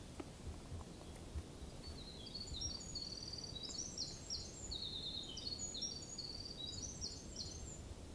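A small songbird singing a long, rapid run of high, varied notes, starting about two seconds in and lasting some six seconds, over a steady low background rumble.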